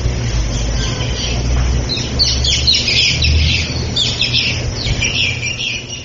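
Birds calling in a dense chatter of short, high calls that start about two seconds in, over a steady low rumble.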